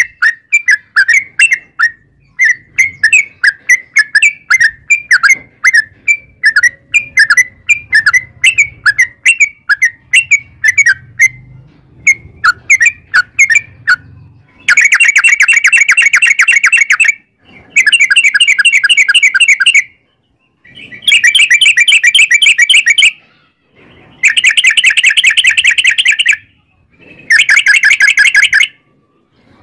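Yellow-vented bulbul (trucukan) song. First comes a string of short chirps, two or three a second; from about halfway it switches to five long bursts of a fast, rattling trill (the 'ropel' song), each two to three seconds long with short breaks between.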